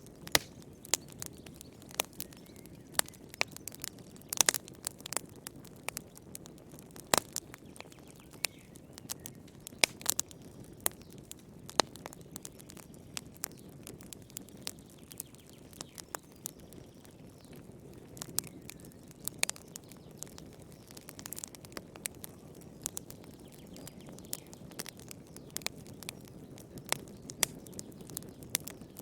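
Fire crackling in a fireplace: irregular sharp pops and snaps, some much louder than others, over a steady low rumble of flames.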